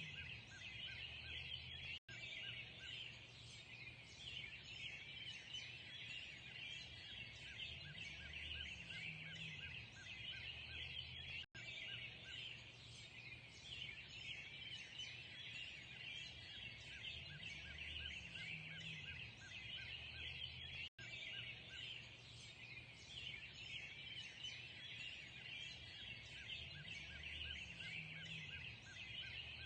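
Dense chorus of small songbirds chirping and twittering continuously over a low background rumble. The sound cuts out for an instant three times, roughly every nine and a half seconds.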